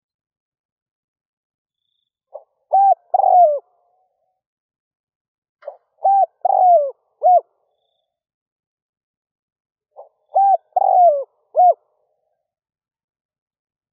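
Spotted dove (Streptopelia chinensis) cooing: three song phrases about four seconds apart, each a short first note followed by three coos.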